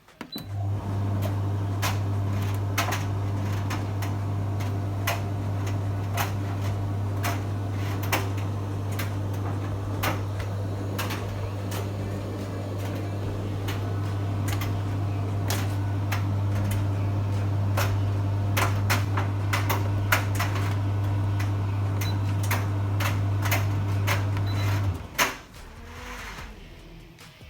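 Beko 7kg condenser tumble dryer running with a steady low hum, with irregular clicks and taps as the load knocks around the drum; it stops suddenly near the end.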